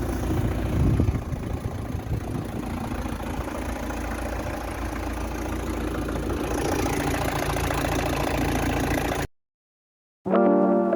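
Vauxhall Zafira's engine running steadily at idle, a little louder about a second in, then stopping suddenly about nine seconds in.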